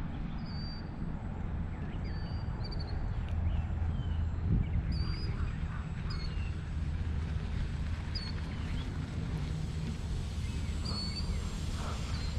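Small birds chirping: short high calls every second or two, over a steady low rumble.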